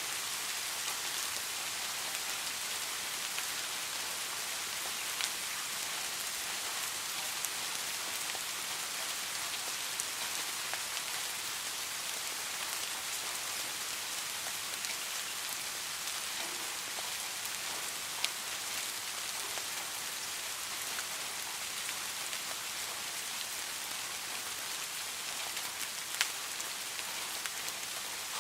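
Steady rain falling in an even hiss, with scattered individual drops ticking and a few sharper taps.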